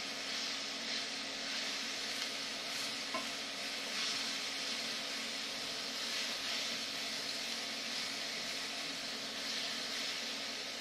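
Sliced mushrooms and onions sizzling in oil in a frying pan as they are stirred with a spatula, a steady hiss that swells a little with each stir.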